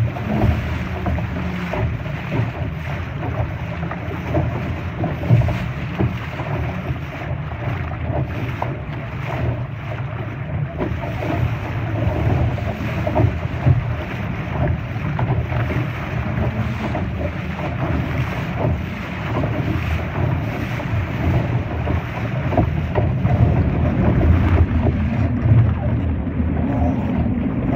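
Wind buffeting the microphone and water splashing against the hull of a Laser dinghy under sail, with small scattered knocks.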